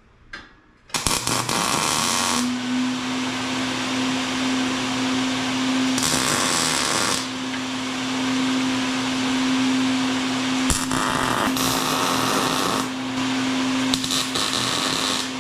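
A Harbor Freight welder's arc runs one long continuous bead, starting about a second in: a steady crackling hiss over a constant electric hum, swelling and easing a few times as the weld goes on.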